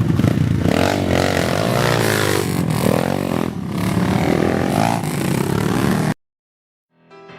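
Motocross bike engines revving and running, their pitch rising and falling, over loud rough background noise. The sound cuts off abruptly about six seconds in, and music fades in just before the end.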